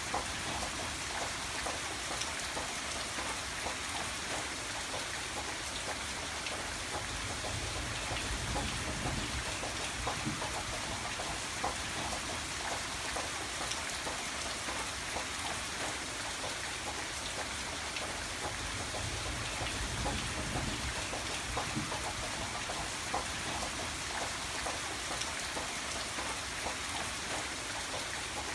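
Steady rain falling, with the patter of individual drops. A soft low rumble swells twice, about a third and about two-thirds of the way in.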